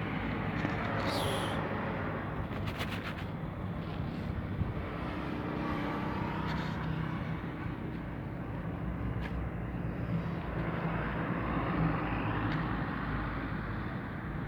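Street ambience: a steady rumble of passing traffic, with a few faint brief high chirps or clicks early on.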